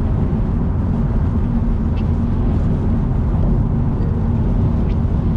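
A car driving at expressway speed: steady low rumble of road and wind noise, with a few faint ticks.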